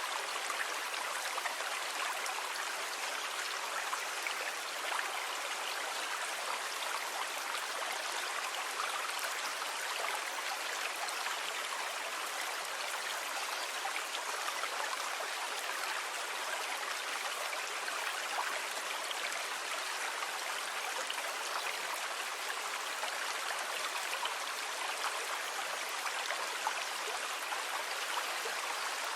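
Calm sea water, a steady even wash with a fine fizzing crackle and no distinct wave swells.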